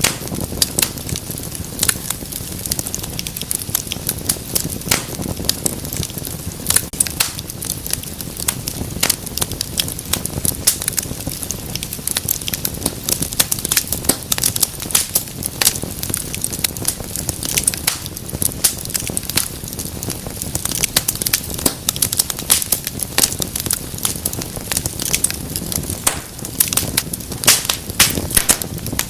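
Wood fire in a fireplace crackling and popping, with many sharp snaps over a steady low rumble of the flames.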